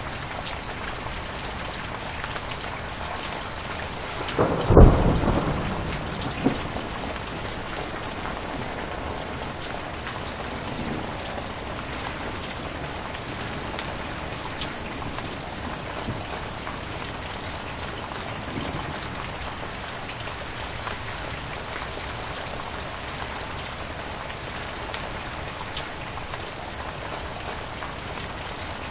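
Heavy rain falling steadily. A sharp thunderclap comes about five seconds in, followed by a second smaller crack and a short rumble before the rain alone carries on.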